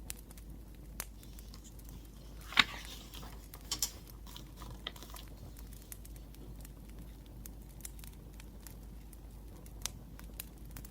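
Wood fire crackling: scattered sharp pops and ticks over a faint steady background, with one loud snap about two and a half seconds in and a quick double pop a second later.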